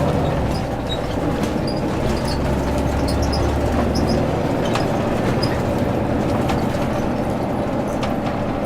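Scania L94UB city bus with ZF automatic gearbox running on the move: a steady diesel engine drone, a little heavier for a couple of seconds early on, with scattered small rattles and clicks.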